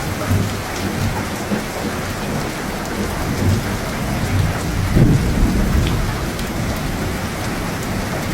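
Steady heavy rain hissing on a surface, with thunder rumbling underneath. The rumble swells to its loudest about five seconds in, then fades back.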